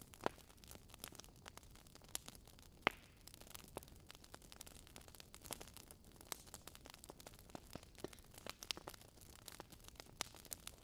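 Campfire crackling: irregular pops and snaps of burning wood over a soft hiss, with two sharper pops near the start and about three seconds in.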